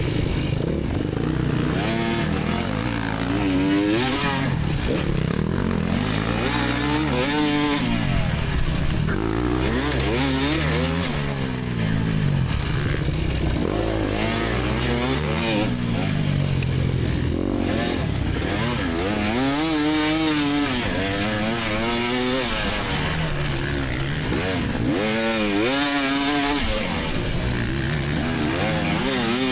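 2024 GasGas EX300 single-cylinder two-stroke dirt bike engine under race load, its pitch rising and falling over and over as the throttle is opened and rolled off.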